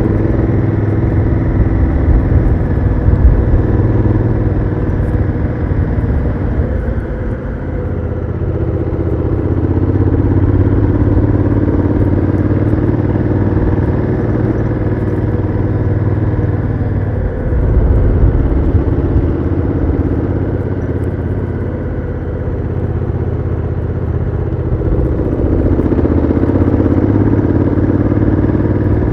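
Honda Africa Twin CRF1000L's parallel-twin engine through its stock exhaust, heard while riding. The engine note eases off about a quarter of the way in, picks up suddenly just past halfway and rises again near the end.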